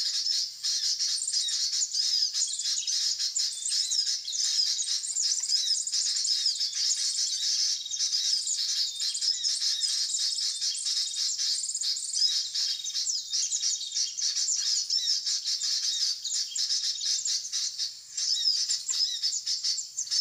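Small birds chirping and twittering continuously in rapid, high, overlapping notes.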